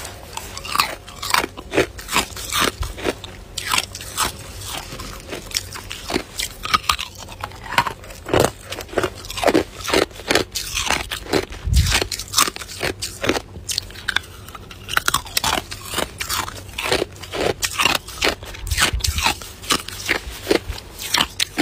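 Ice being bitten and chewed, a quick run of sharp crunches and cracks from a person eating hard ice and crushed ice.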